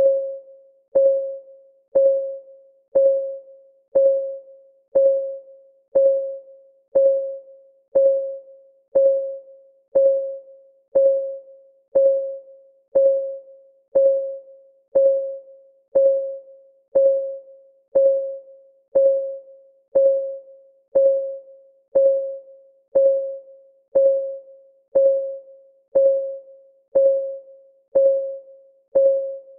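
Timer's clock-ticking sound: a short, pitched tick about once a second, each fading quickly, keeping an even steady beat.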